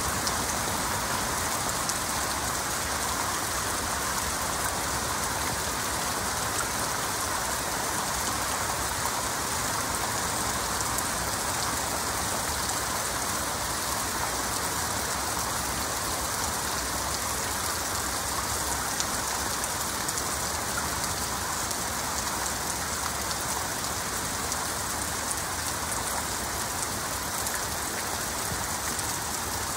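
Heavy rain falling steadily: a dense, even hiss of countless drops with fine pattering impacts.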